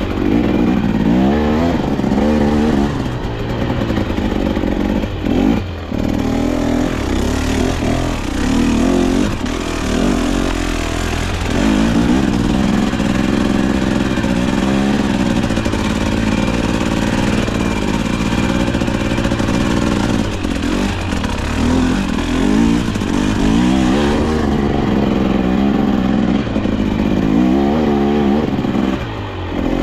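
KTM 250XC-W two-stroke dirt bike engine being ridden, its pitch rising and falling again and again as the throttle is opened and closed.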